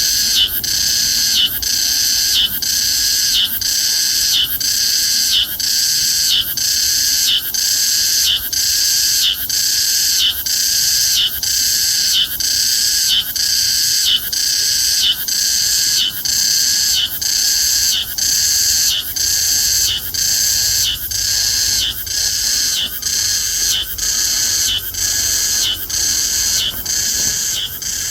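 Sseureum cicada (Meimuna opalifera) singing: a loud, high-pitched call repeated in even phrases a little over once a second.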